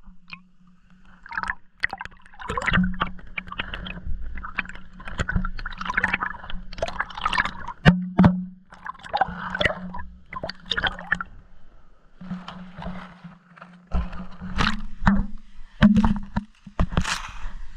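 Water gurgling and sloshing around a camera dunked in a stream on a line, with irregular knocks and clicks against the camera and a steady low hum underneath.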